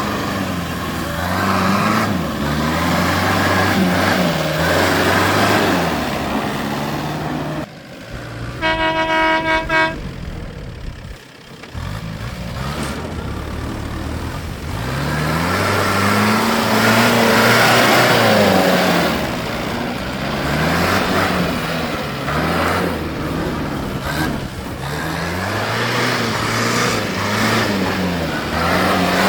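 Tractor engines revving up and falling back again and again. About a third of the way in, a horn sounds one steady blast of about a second and a half.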